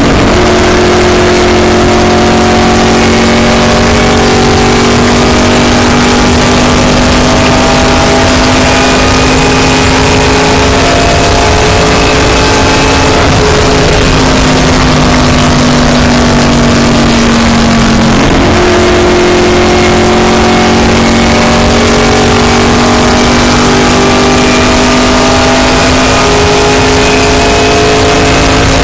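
Race car engine running loud at speed, heard from inside the car, with its pitch holding mostly steady and dipping and climbing back twice, about halfway through and again a few seconds later.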